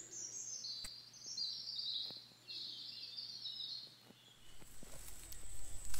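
A bird singing a run of high chirping notes for about four seconds, with a single sharp click about a second in.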